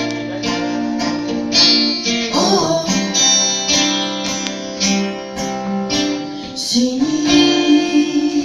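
Live song with guitar: a woman sings a long held "O" about three seconds in and then "sinits" near the end, over regular guitar strokes.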